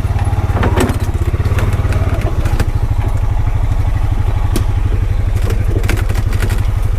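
Honda Pioneer 520 side-by-side's single-cylinder engine running steadily as it drives over rough ground, with scattered knocks and rattles from the body and suspension.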